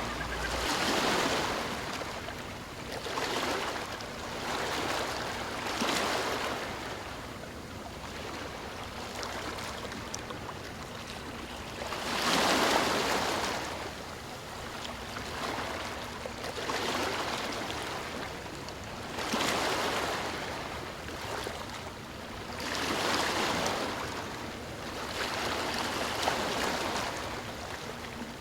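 Sea waves breaking and washing in, a noisy surge that swells and fades every few seconds, the strongest about twelve seconds in.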